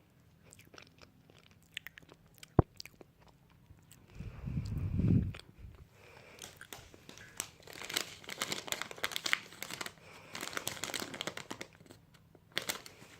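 Close-miked ASMR crunching and chewing sounds: scattered small clicks and one sharp tap, a low thump near the middle, then a dense stretch of crisp crunching.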